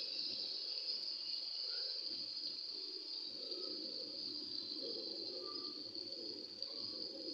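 Chicken simmering in oil and gravy in a pan, a steady high sizzling hiss.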